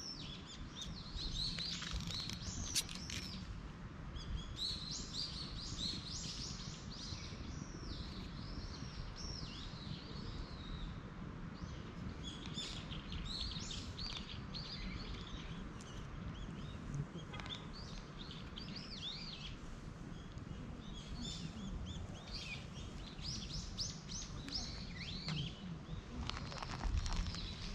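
Small birds chirping and twittering in short clustered bursts, over a steady low outdoor rumble.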